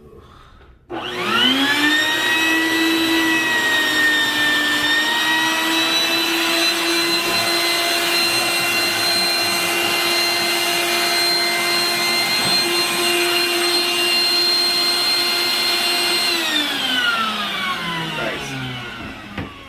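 Vacuum cleaner switched on about a second in, its motor whine rising as it spins up, then running steadily while it sucks the leftover water out of a toilet bowl. Near the end it is switched off and winds down with a falling whine.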